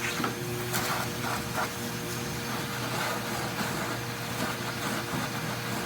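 Vacuum cleaner running steadily, with a few short rattles and knocks as it sucks debris from under a truck seat.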